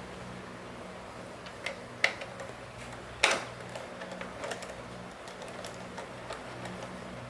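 Scattered light clicks and knocks, the loudest two about two and three seconds in, over a faint steady low hum.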